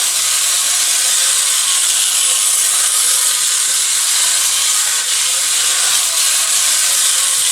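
Tinplate electric model train running on tinplate track: a steady high whirr of its motor and wheels, with no breaks.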